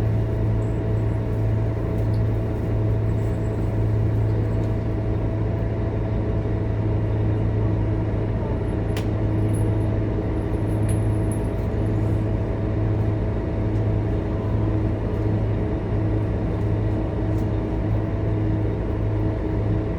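Scania K230UB city bus's diesel engine running steadily, a constant low drone with a steady hum above it and no revving. A single light click about nine seconds in.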